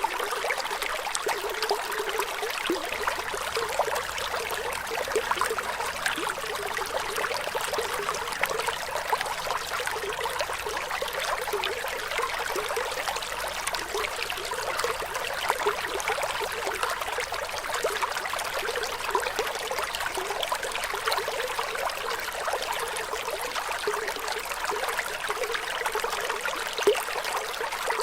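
Flowing water trickling steadily, a continuous hiss of running water flecked with small splashes and bubbles.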